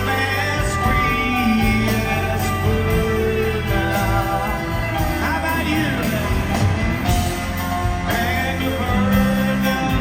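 Rock band playing live: electric guitars over bass and drums, with gliding slide-guitar notes around the middle.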